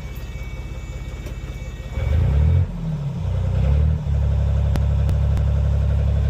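Narrowboat engine running, pulsing low at first, then revved up about two seconds in and settling into a steady, louder run from about four seconds; it is run to heat the boat's water.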